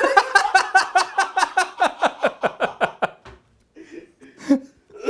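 A person laughing in a quick run of pulses that falls in pitch and fades over about three seconds, followed by a few quieter breathy snickers.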